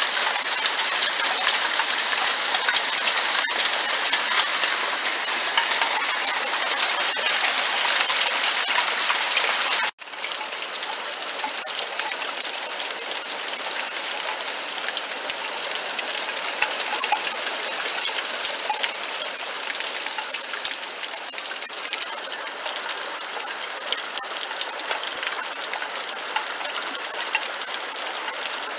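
Small hailstones falling steadily, a dense clatter of many fine ticks mixed with the hiss of a downpour. The sound cuts out for a moment about ten seconds in, then resumes.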